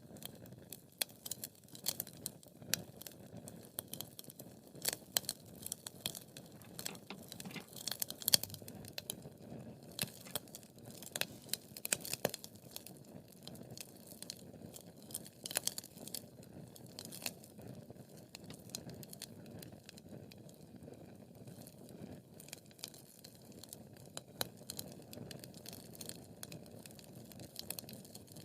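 Wood fire crackling: irregular sharp pops and snaps, several each second, over a low, even hiss of burning.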